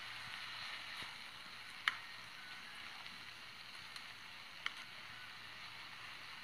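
Chicken pieces frying in oil in a nonstick pot, a steady sizzle, while a wooden spoon stirs them; a few sharp clicks stand out, the loudest about two seconds in and another near five seconds.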